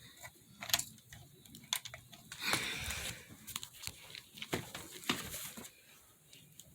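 HO scale model train running on its track: scattered small clicks and knocks, with a short rustling noise about two and a half seconds in.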